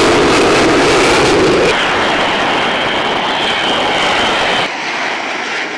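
Fighter jet engine running loud and steady, starting suddenly. A faint high whine runs through the middle, and the noise drops a little in level near the end.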